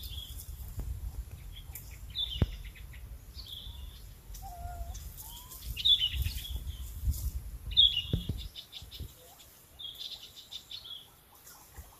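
A bird chirping: short, high calls that drop in pitch and trail off in a quick stutter, about six of them a second or two apart. Under them is a low rumble that stops about eight and a half seconds in.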